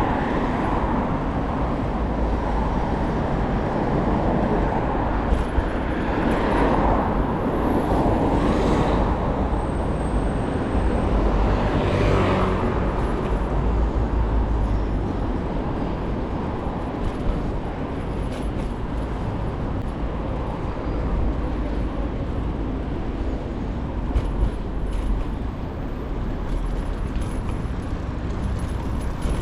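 City street traffic heard from a moving bicycle: a steady low rumble with vehicles swelling past a few times in the first half, and a few light clicks.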